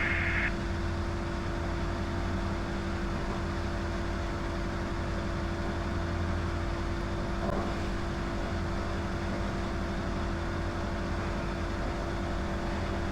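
Diamond DA20's piston engine and propeller droning steadily at climb power, heard from inside the cockpit. A brief high tone cuts off in the first half second.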